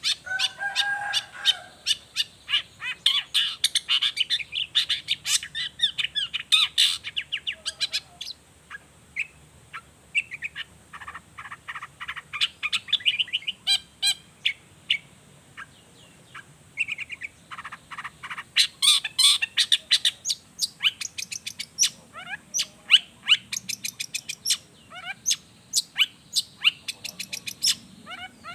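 Long-tailed shrike (cendet) singing a fast, varied chattering song of sharp clicking notes and short trills, in bursts broken by brief pauses.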